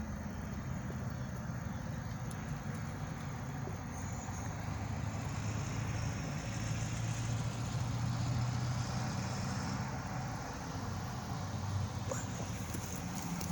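Diesel locomotive engines of Kiamichi Railroad EMD SD40-2 units running with a steady low drone that grows a little louder midway.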